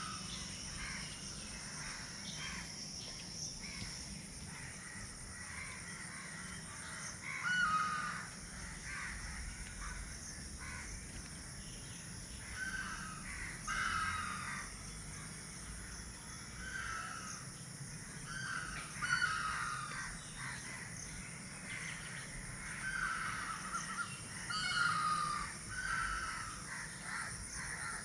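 A bird calling repeatedly, short pitched calls spaced a few seconds apart. A steady high hiss runs underneath.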